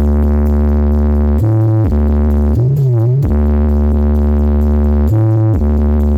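Loud electronic dance music played through a large carnival sound system: a heavy, sustained synth bass that changes note in steps, with a swooping pitch bend about halfway through.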